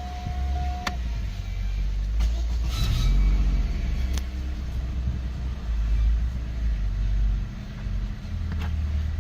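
Opel Zafira B's 1.8-litre Z18XER four-cylinder petrol engine running, a steady low rumble that swells in level about three seconds in and again around six to seven seconds, with a few sharp clicks and a short steady tone at the very start.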